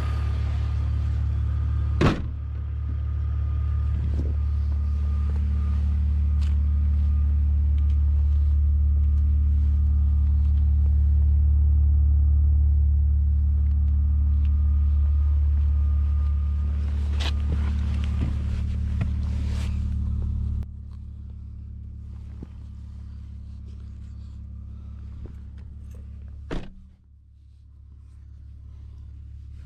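Inside a BMW E46's cabin, a steady low drone, typical of the inline-six running at low revs, is heard with a few sharp clicks and knocks. The drone drops abruptly in level about two-thirds of the way through.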